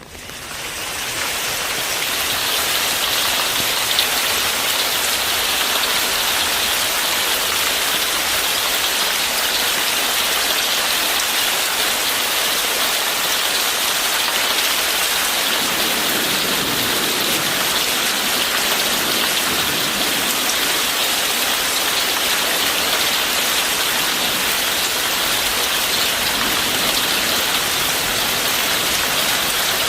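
Steady rain falling, an even dense hiss that fades in over the first couple of seconds, with a single faint tick about four seconds in.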